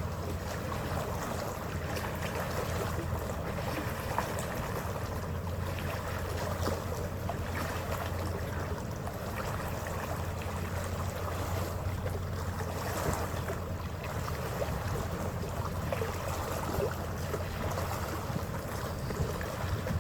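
Passenger ferry under way: a steady low engine drone with the rush of water along the hull and wind.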